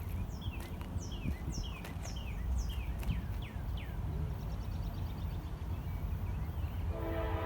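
A songbird gives a quick series of short chirps, each falling in pitch, over a low outdoor rumble of wind. Near the end a distant train horn starts sounding a steady chord.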